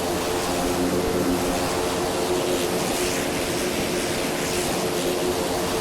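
Cessna aircraft engine and propeller running steadily in flight: an even drone with a few steady hum tones under a broad rushing noise.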